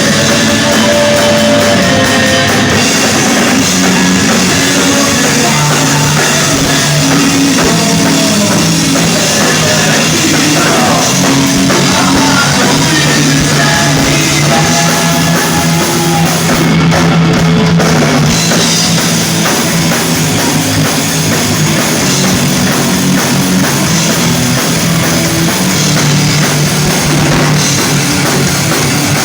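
Rock band playing live, loud and continuous, driven by a full drum kit.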